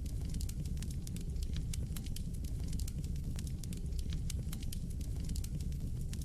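Wood fire crackling in a fireplace: a steady low rumble of flames with many quick, irregular sharp pops and snaps.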